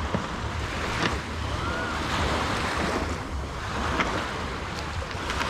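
Waves washing onto a sandy beach, swelling about two seconds in, with wind buffeting the microphone.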